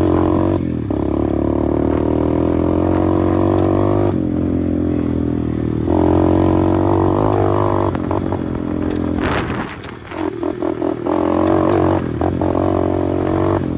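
125cc pit bike engine running under throttle while riding, the rider blipping the throttle on and off in quick bursts for a few seconds near the end. He calls this just playing with the throttle; there is nothing wrong with the bike.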